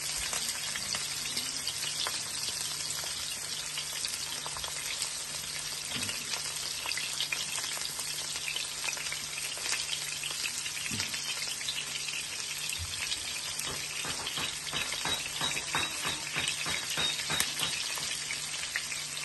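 Food sizzling and crackling in hot oil in a pan, with stirring. The crackles and clicks come thick and fast for several seconds near the end.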